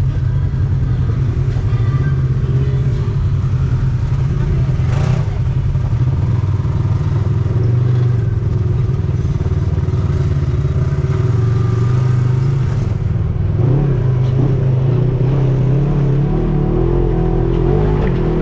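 ATV engine running steadily while riding, its note shifting as the throttle changes about three-quarters of the way through.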